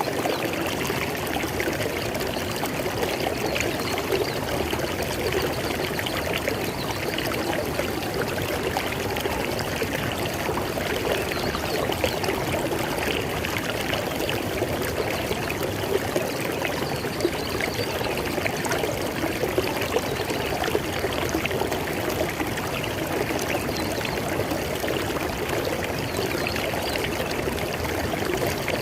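River water flowing, a steady, even rush with no change in level.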